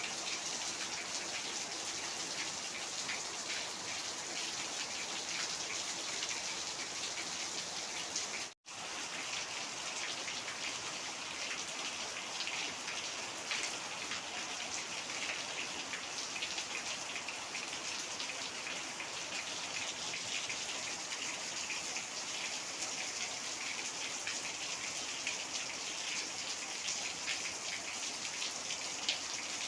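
Heavy rain falling steadily, a dense hiss of drops on surfaces with no thunder. It cuts out for an instant about eight seconds in.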